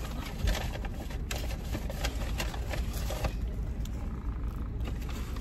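Low steady rumble of a car engine idling, heard from inside the cabin with the window open, with a few faint clicks and knocks.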